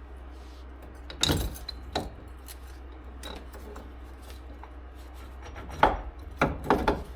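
Metal parts of a new wheel bearing assembly being handled and fitted: knocks and scraping clunks, a couple about a second in and a cluster of several near the end.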